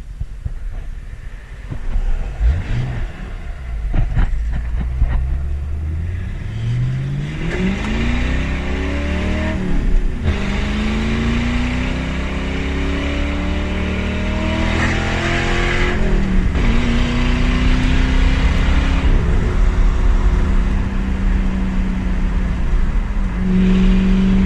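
Ford Mustang GT's 4.6-litre two-valve V8 running with its mufflers removed, pulling away and accelerating through the gears: a few short revs, then the engine note climbs, drops at a shift about ten seconds in, climbs again, drops at another shift around sixteen seconds, and then holds a steady note.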